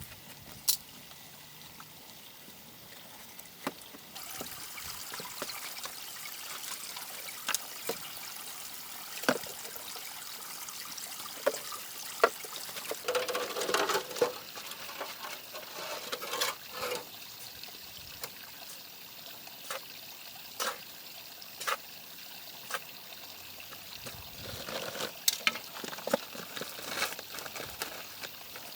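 Water trickling and pouring, with scattered clicks and knocks.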